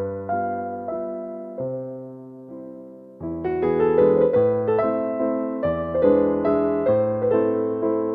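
Calm piano music. Single notes ring and die away through a thinner, quieter stretch, then fuller chords come in at a steady pace from about three seconds in.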